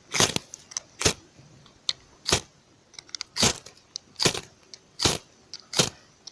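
A ferrocerium fire steel struck repeatedly with its metal striker to throw sparks for lighting tinder: about seven sharp scrapes, roughly one a second, with fainter clicks between.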